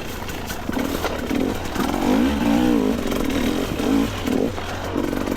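Two-stroke dirt bike engine revving up and down in a low gear while riding a rough trail, the pitch rising and falling with the throttle, loudest about two seconds in.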